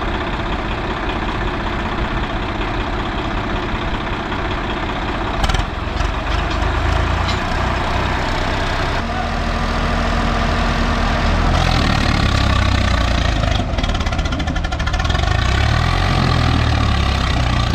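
Diesel engines of two tractors, a Mahindra 585 DI and a Swaraj 855 FE, running hard under load in a tug-of-war pull. They get louder and deeper about five or six seconds in, and louder again past the middle.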